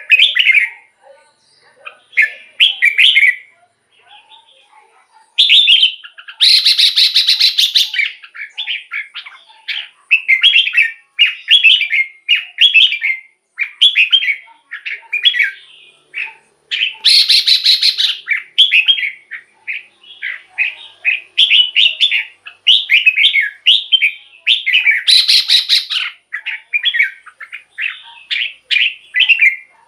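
Red-whiskered bulbul singing: a string of short, loud whistled and warbled phrases, repeated with brief gaps. Three times a harsher, buzzy note stands out among the phrases.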